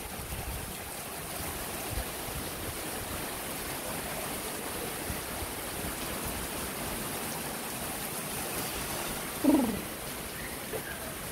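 Heavy rain falling steadily. About nine and a half seconds in, a brief louder sound slides down in pitch.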